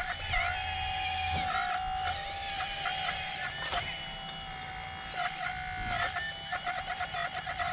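Small electric motors of an RC excavator whining steadily, the hydraulic pump's note dipping briefly now and then under load, with shorter rising and falling whines and fine gear ticking.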